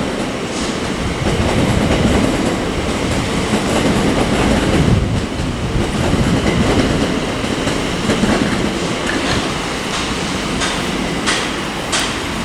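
Class 345 electric multiple unit pulling out of a station, its running noise steady, with a few sharp wheel clicks over the rail joints near the end.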